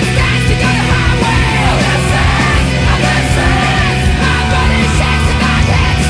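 Loud post-hardcore rock music: electric guitars, bass and drums playing a dense, driving passage.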